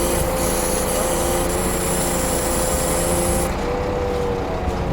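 Scania truck's diesel engine running steadily, with a constant hum and a background hiss. The high part of the hiss drops out about three and a half seconds in.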